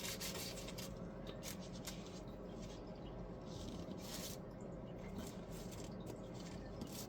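Quiet room tone with faint scattered rustles and small handling clicks.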